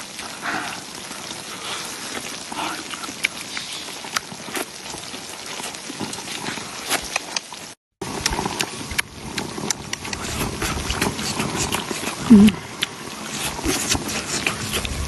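Tofu sizzling on a griddle: a steady hiss with many sharp clicks and pops. A short, loud pitched cry, like a voice, cuts in about twelve seconds in.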